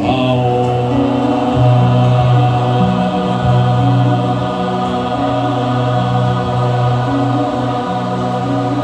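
A group of people chanting together in long held notes, like a mantra sung on one breath, over music whose chords shift every second or two.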